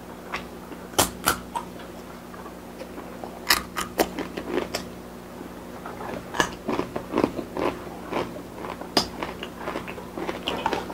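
A person chewing close to the microphone: irregular sharp crunches and wet mouth clicks as a Blue Takis rolled tortilla chip is bitten and chewed. The loudest crunches come about a second in and again around three and a half seconds in, over a faint steady hum.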